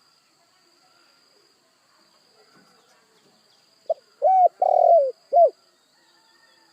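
Spotted dove (tekukur) cooing: about four seconds in, one phrase of a short note followed by three longer coos. A faint steady high tone runs underneath.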